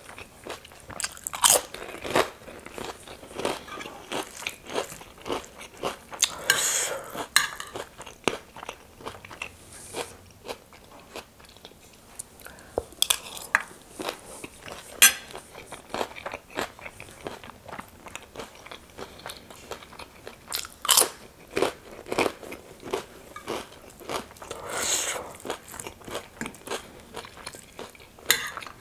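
Crunching and chewing of crisp snack food: chips and chatpate, a spicy puffed-rice mix. The sharp crunches are irregular, with louder clusters every few seconds.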